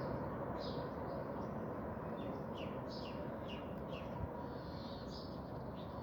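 Small birds chirping: a run of short, quick, downward-sweeping chirps, repeated many times, over a steady low background noise.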